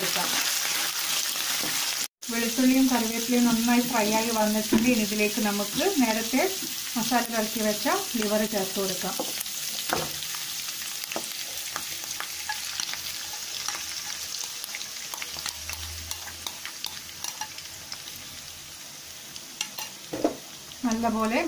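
Curry leaves, garlic and onion frying in hot coconut oil in a nonstick pan: a steady sizzle with scattered crackles and the scrape of stirring. Marinated liver pieces go into the pan about halfway through, and the sizzle grows gradually quieter.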